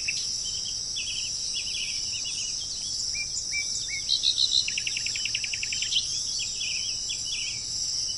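Songbirds singing in short chirps and phrases, with a fast trill of rapid notes about halfway through, over a steady high-pitched insect drone.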